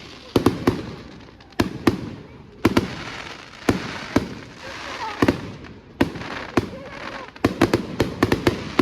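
Aerial fireworks going off: a quick, irregular series of sharp bangs, coming thickest near the end.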